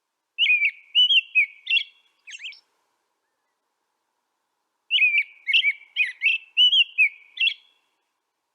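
A songbird singing two short phrases of quick, high, warbling chirps: one starting about half a second in and one about five seconds in, with silence between them.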